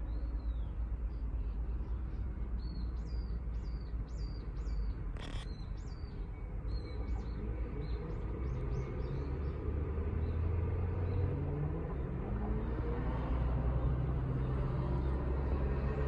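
A small bird calling with a series of short, quick chirps, about two a second, through the first half. Then a motor vehicle approaches, its engine rising in pitch and growing louder toward the end, with a single sharp click about five seconds in.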